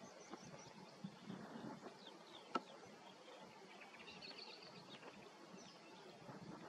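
Faint open-air ambience with distant small birds chirping high and thin, a cluster of chirps about four seconds in, and a single sharp click about two and a half seconds in.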